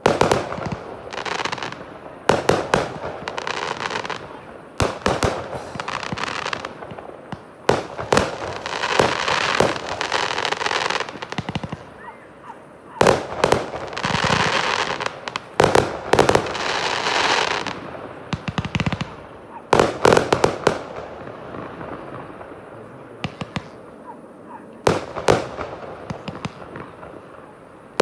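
Aerial fireworks display: a rapid series of sharp bangs from shells bursting, several followed by dense crackling that lasts a second or two. The bangs thin out for a few seconds past the middle, then pick up again near the end.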